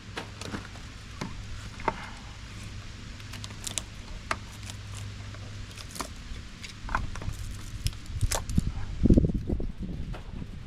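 Scattered light metal clinks and taps as appliance parts are handled and pulled apart for scrap. A heavier low thump or rumble comes near the end.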